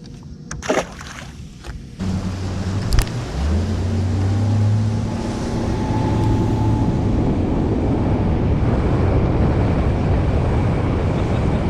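A few knocks, then about two seconds in an outboard motor starts and the bass boat gets under way, the engine's steady hum giving way to a loud, even rush of wind and water.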